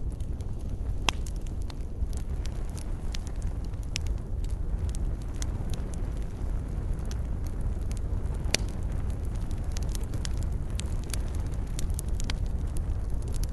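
Wood campfire burning: scattered sharp crackles and pops over a low steady rumble, with a louder pop about a second in and another about eight and a half seconds in.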